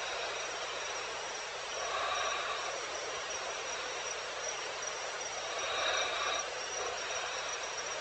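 Night insects, crickets among them, calling steadily in a continuous high chirring. A louder swell of calling comes twice, about two and six seconds in.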